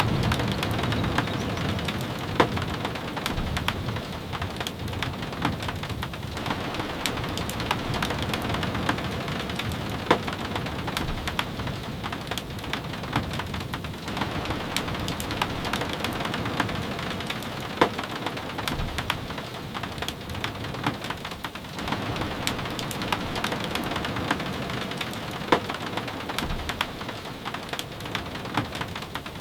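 Rain falling steadily, with many scattered sharp taps and a few louder ticks. A low rumble sits under it in the first few seconds.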